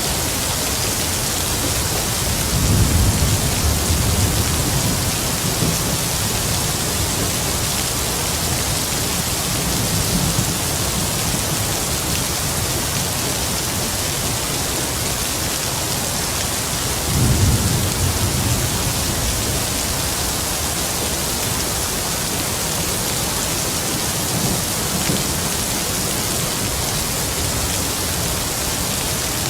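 Heavy rain falling steadily, with low distant thunder rumbling twice, about three seconds in and again past the middle.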